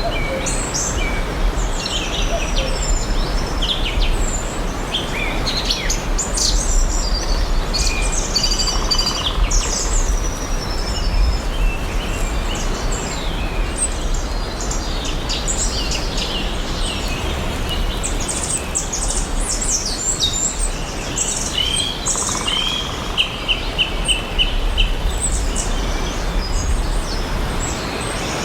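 Several forest birds chirping and singing over a steady background hiss, with a rapid trill of repeated high notes about three quarters of the way through.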